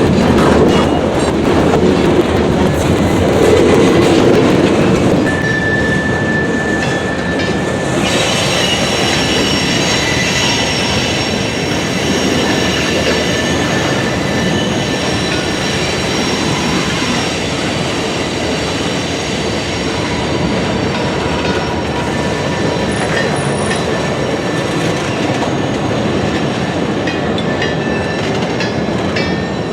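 Freight train cars rolling past with a steady rumble and wheel clatter. From about eight seconds in, a steady, high wheel squeal joins it and continues on.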